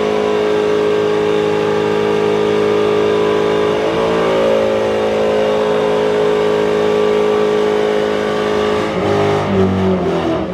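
Car engine held at steady high revs during a burnout, over a haze of noise; near the end the revs drop and the engine note falls.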